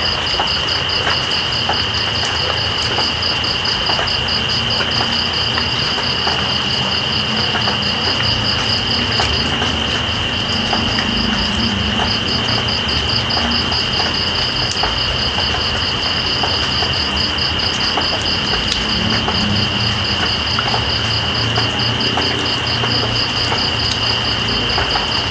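Night insects over steady rain. One insect keeps up a continuous high drone while another pulses in a rapid high trill, which breaks off briefly about ten seconds in. Underneath is an even hiss of rain with scattered drop ticks.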